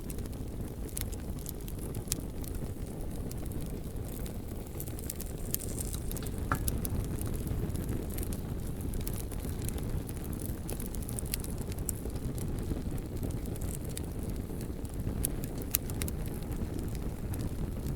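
Campfire crackling, with scattered sharp pops and snaps over a steady low rumble. A brief faint whistle comes about six and a half seconds in.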